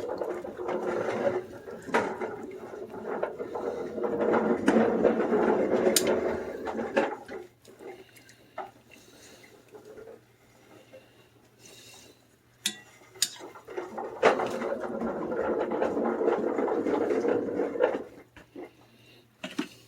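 Kitchen handling sounds as boiled chicken pieces are lifted out of the pot of broth onto a paper plate: scattered sharp clicks and knocks of a utensil, with two stretches of rustling, sloshing noise separated by a quiet spell.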